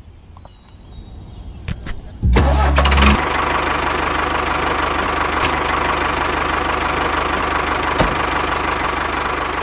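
A few faint clicks, then about two seconds in a tractor engine starts with a sudden loud low rumble and settles into running steadily.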